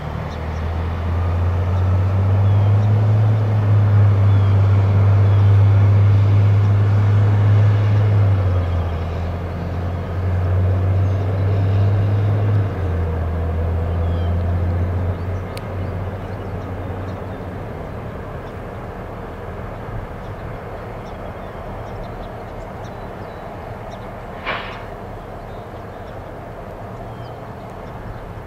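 SD70M-2 diesel-electric locomotive with a 16-cylinder two-stroke EMD engine working under throttle as it starts the train back: the engine note builds over the first few seconds and holds loud, drops briefly, rises again, then eases down to a lower steady running. A brief sharp noise about 24 seconds in.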